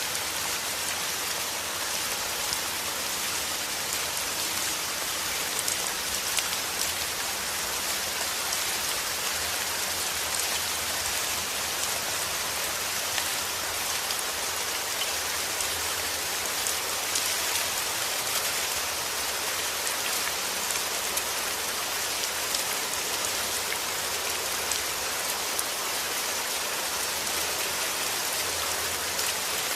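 Steady heavy rain falling, an even hiss with the patter of drops striking a surface.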